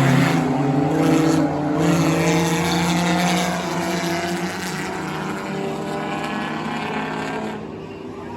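Several racing cars' engines running together around the track, their pitches overlapping and shifting as the cars go by; the sound gets quieter near the end.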